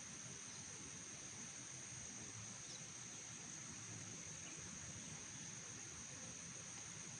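Faint insect chorus: one steady, unbroken high-pitched trill over a low hiss.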